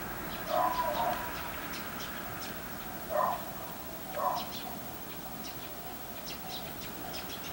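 Birds calling: short high chirps scattered throughout, with louder calls about half a second in (a quick double), at three seconds and at four seconds.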